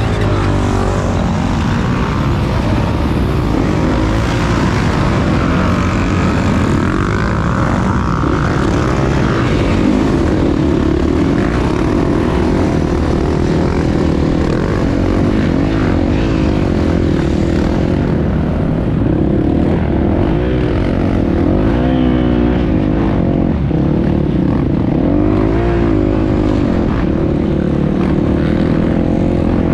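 Enduro motorcycle engine heard from a camera mounted on the bike, running hard with the revs rising and falling continually as the rider works the throttle over the course.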